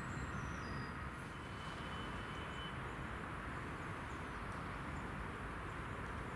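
Steady outdoor rushing background noise at an even level, with a few faint, short, high chirps over it.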